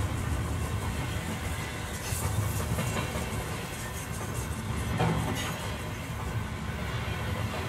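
Railway coaches of a steam-hauled heritage train rolling slowly along a station platform, heard from an open carriage window: a steady low rumble with a few clicks of the wheels over rail joints.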